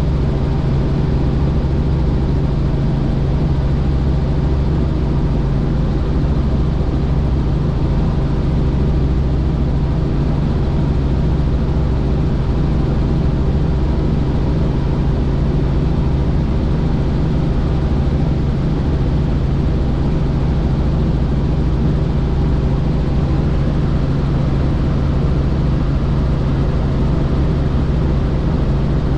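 Helicopter in flight, a loud steady drone of rotor and engine that holds even throughout.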